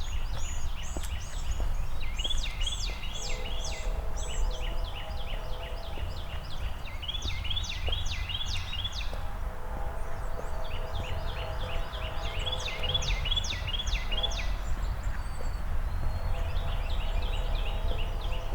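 Songbird singing long phrases of rapid, repeated down-slurred notes, several phrases in a row with short pauses between, over a low steady rumble of outdoor background noise.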